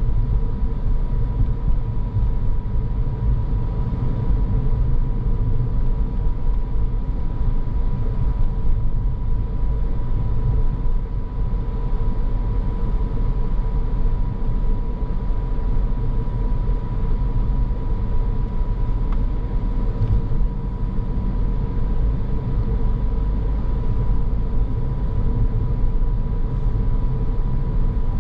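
Car driving along at a steady pace: a continuous low rumble of road and engine noise, with a faint steady whine above it.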